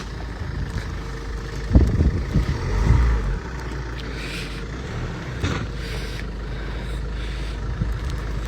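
A car running and driving off, a steady low engine and road rumble, with a few short knocks, the sharpest about two seconds in.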